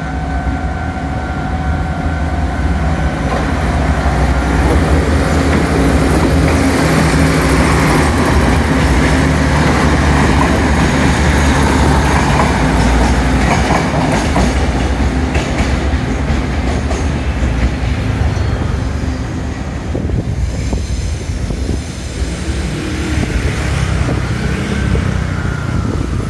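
Train running on the rails: a loud, steady rumble with scattered clicks from the wheels, easing slightly after about twenty seconds.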